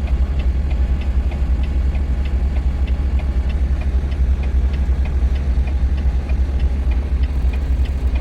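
Semi-truck diesel engine idling: a steady low rumble with a light, regular ticking of about two or three ticks a second.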